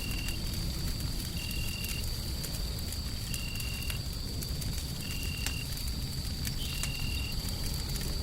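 Wood fire crackling over a steady low rumble of white noise. A faint steady high tone runs underneath, and a short high beep-like tone repeats about every second and a half.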